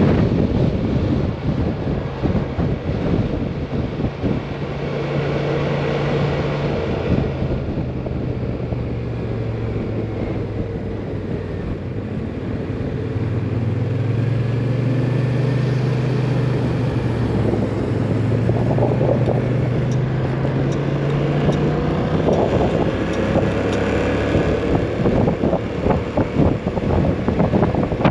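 Heavy wind buffeting on the microphone of a Kymco AK 550 maxi-scooter being ridden in high winds. Beneath it the scooter's engine hum rises and falls in pitch with the throttle.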